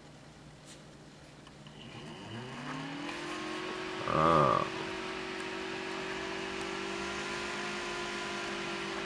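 Intel boxed CPU cooler fan spinning up from standstill on a voltage controller set to about 10 volts: its hum rises in pitch about two seconds in, then settles into a steady whir. About halfway through there is a brief, louder warbling buzz.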